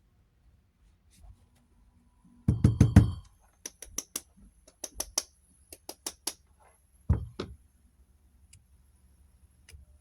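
Hard knocks and clicks of objects being handled: a quick run of loud knocks about two and a half seconds in, then a string of sharp clicks and two heavier thumps, over a faint low hum.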